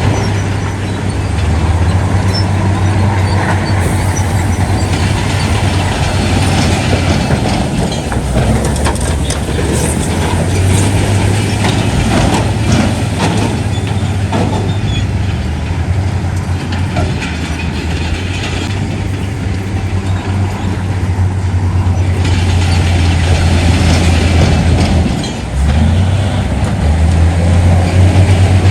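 Heavy diesel earthmoving machinery running: a steady low engine hum with rumbling and scattered metallic clanks. The sound changes abruptly several times.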